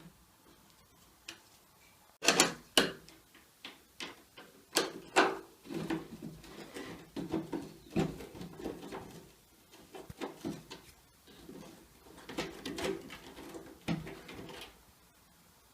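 Hand tools working the screws of a washing machine's steel cross member: a few sharp metallic knocks, then bursts of rapid clicking and rattling as the socket and bit are turned on the screws.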